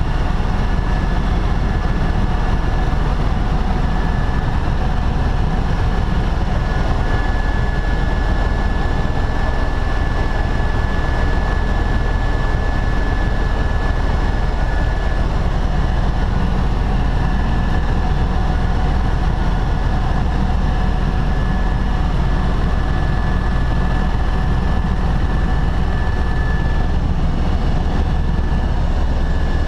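Tour helicopter in flight: a steady, loud drone of engine and rotor, with a thin high whine held throughout.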